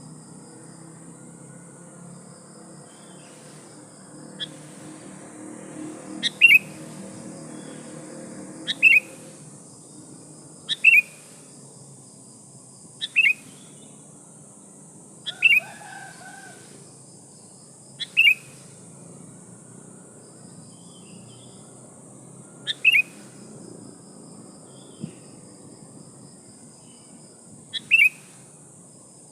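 Female sooty-headed bulbul giving short, sharp calls, each a quick downward-sliding note, repeated about every two to four seconds: a female's call to attract and provoke males. A steady high insect hiss and a cricket trill run underneath.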